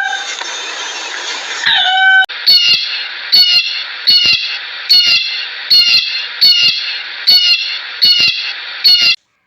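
A bird calling over and over, a sharp call a little more than once a second, each with a slightly falling high note, over a steady hiss.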